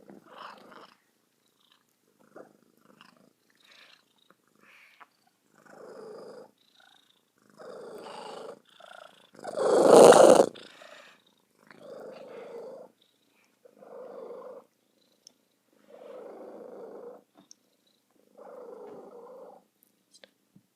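Domestic cat making pigeon-like cooing purrs, a sign that it is happy, about one every two seconds. One call about halfway through is much louder than the rest.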